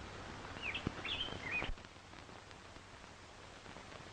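A bird chirping a quick run of short, curling notes in the first couple of seconds, with a few soft thumps among them, over a steady background hiss.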